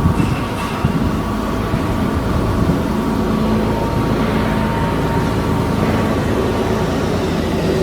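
Heavy machinery running steadily: a constant low rumble with a steady hum on top, unbroken throughout.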